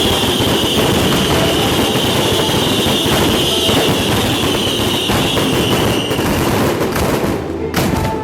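Fireworks crackling in a dense, rapid barrage, with a high steady hiss over it that fades out about six and a half seconds in. The crackle thins to scattered pops near the end.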